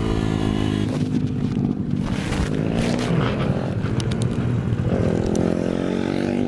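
Small mini-motorbike engine revving hard on a track lap. The engine note drops at the start, runs rough and uneven through the middle, then climbs again about five seconds in as the bike accelerates.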